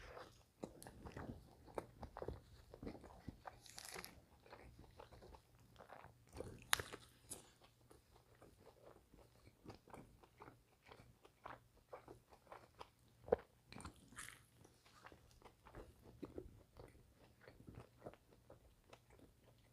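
A person chewing a Dairy Queen grillburger close to the microphone: quiet, irregular wet smacks and mouth clicks, with two sharper smacks about 7 and 13 seconds in.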